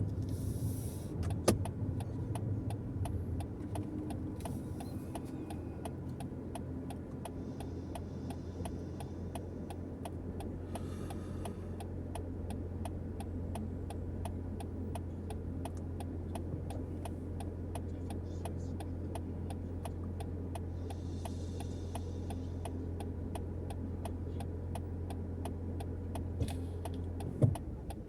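Steady low drone of a car's engine and tyres heard from inside the cabin while driving, with a faint regular ticking throughout. A brief knock near the end, after which the drone drops away.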